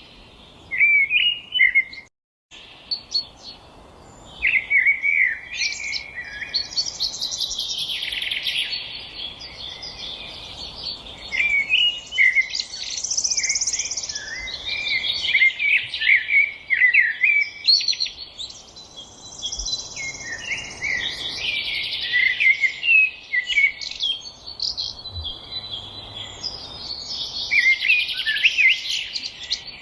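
Several songbirds singing at once, overlapping chirps, trills and quick sliding notes. The sound drops out completely for a moment about two seconds in.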